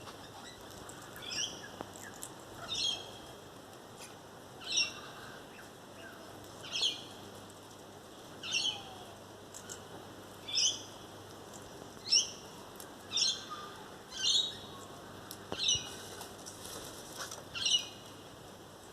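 Parrots calling at a seed feeder: a dozen or so short, sharp, high calls, one every second or two.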